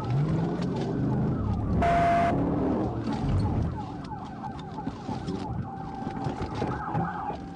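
Police car siren wailing, switching to a rapid yelp about four seconds in, over a car engine accelerating. A short loud burst of noise comes about two seconds in.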